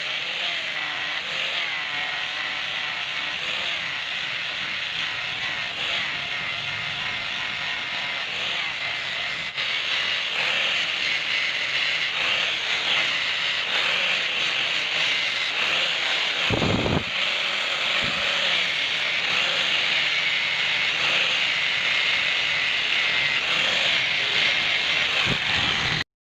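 A power polishing tool running steadily against metal, a hissing whir that grows louder about ten seconds in, with a brief low thump about seventeen seconds in. It cuts off abruptly just before the end.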